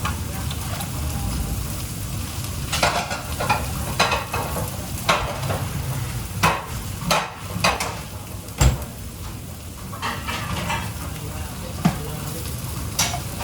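Food frying and sizzling in a pan while a utensil stirs it, scraping and knocking against the pan at irregular intervals.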